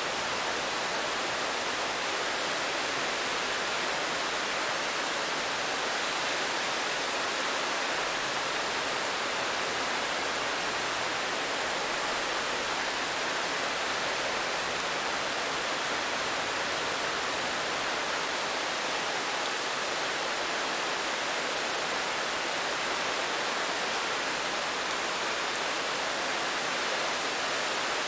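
Steady rainfall: an even, unbroken hiss with no single drops or gusts standing out.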